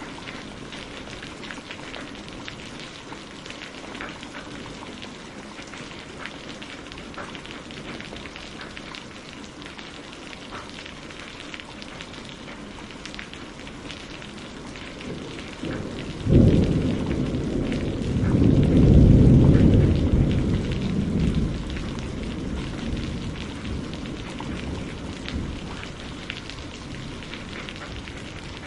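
Steady rain falling on a greenhouse roof, heard from inside, with many small drop ticks. A little past halfway, thunder breaks suddenly, swells once more, and rumbles away over several seconds.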